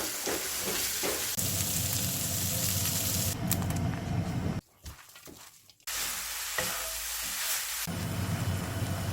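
Food sizzling in a hot frying pan, a steady crackling hiss that cuts out for about a second near the middle and then resumes.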